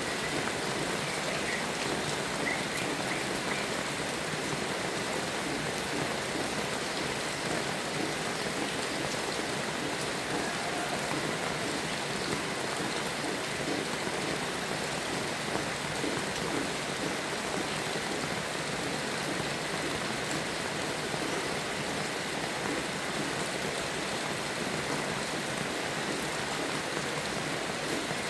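Steady rain falling, a dense, even hiss of drops with no thunder.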